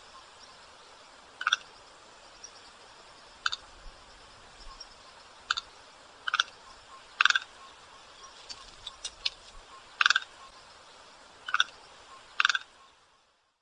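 White stork calling: about ten short calls at uneven gaps of one to two seconds, some in quick pairs, over faint background hiss. The recording cuts off just before the end.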